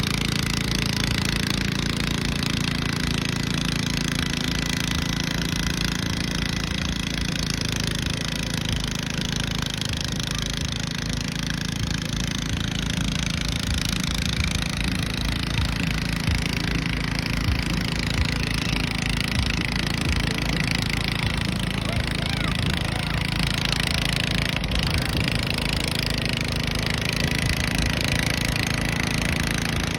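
Garden pulling tractor engine running at a steady speed with fast, even firing pulses, holding the same pitch throughout.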